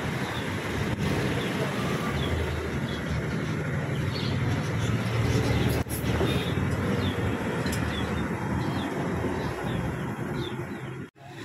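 Small birds chirping over and over, short high calls, over a steady low rumble and hiss.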